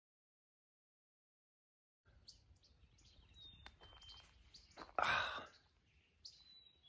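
Total silence for about two seconds, then scattered songbirds chirping. About five seconds in there is one short, louder rush of noise, lasting about half a second.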